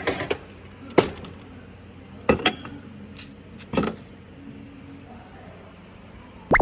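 A series of short, sharp knocks and clinks, about six spread irregularly over a few seconds, with one loud click at the very end.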